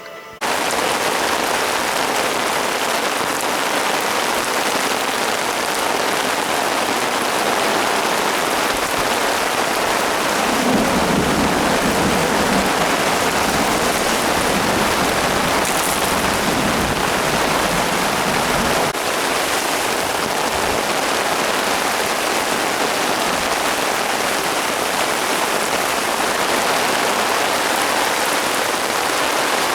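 Steady heavy rain falling, a loud dense hiss that starts abruptly about half a second in, with a deeper rushing swell for a few seconds around the middle.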